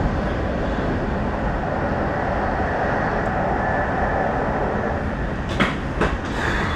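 Passenger train in motion, heard from inside the carriage: a steady rumble and rush of wheels on rail, with two short knocks near the end.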